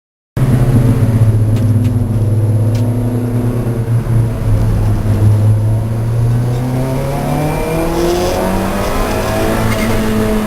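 Lancia Delta race car's engine running hard on track, cutting in abruptly about half a second in. It holds a steady pitch, then revs up through the last few seconds.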